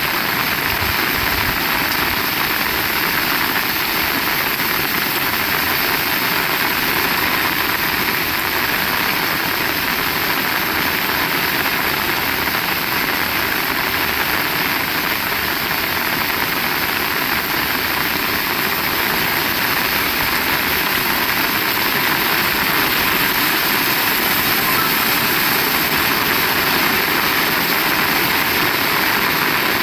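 Heavy rain pouring steadily, a dense even hiss, with strong wind gusting in a low rumble.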